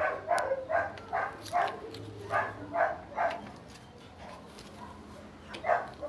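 A dog barking: about eight short barks in quick succession, then one more bark near the end.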